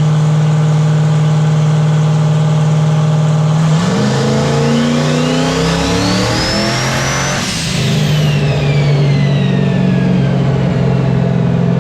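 Turbocharged LT V8 engine running steadily, then revved once for about three and a half seconds and dropping back. A high turbo whine climbs with the revs and winds down slowly after the throttle closes.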